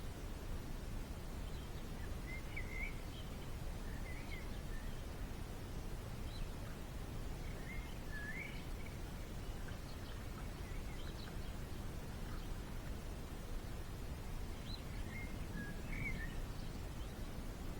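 Small birds giving short, scattered chirps, in clusters a few seconds apart, over a steady low background rumble.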